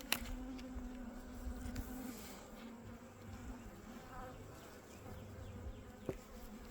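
Honeybees buzzing over an open hive frame: a steady, low hum of many bees, with a faint click or two.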